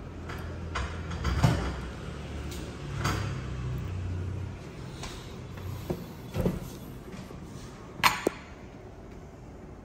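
Scattered knocks and clicks of objects being handled and set down, with a low steady hum beneath; the loudest is a sharp knock about eight seconds in, followed closely by a smaller one.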